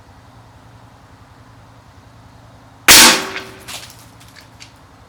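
A single shot from a Savage Mark II TRR-SR bolt-action .22 LR rifle firing CCI standard-velocity rounds, about three seconds in. The sharp report dies away over about half a second, followed by a few faint ticks.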